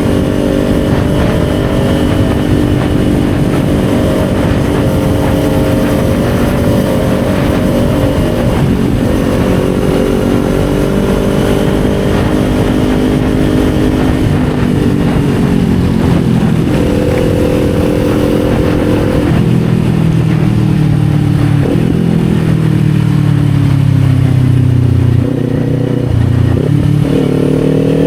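Kawasaki Z400's parallel-twin engine running under way, its pitch rising and falling several times as the throttle and gears change.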